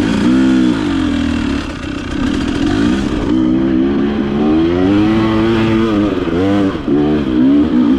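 Enduro motorcycle engine revving hard and unevenly, its pitch rising and falling again and again.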